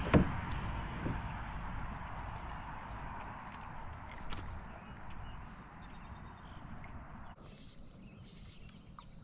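Insects droning steadily in one high, even tone, over a rushing hiss that cuts off suddenly about seven seconds in. A single sharp knock sounds right at the start.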